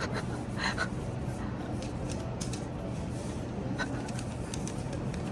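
Packaging of a chocolate bar being handled and opened, with scattered short crinkles, scratches and ticks over a steady low room hum.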